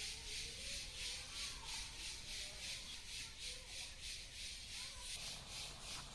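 Cicada singing: a high-pitched, continuous buzz that pulses steadily at about four beats a second.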